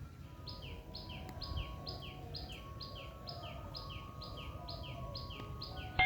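A bird calling over and over, a short two-part falling chirp about twice a second, over a low outdoor rumble.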